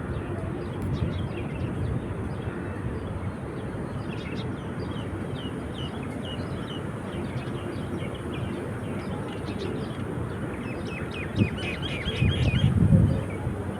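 Small birds chirping in short, repeated high calls, busiest near the end, over a steady low rumble of wind or surf. A brief knock comes near the end, followed by a louder low rush.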